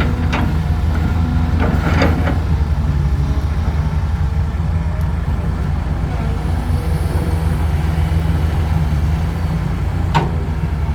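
Heavy diesel engine running steadily with a deep, even drone, with a few sharp metallic knocks around the first two seconds and one more near the end.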